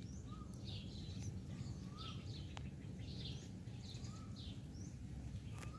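Birds chirping: a short high chirp repeated about once a second, and a brief lower whistled note every couple of seconds, over a low steady rumble.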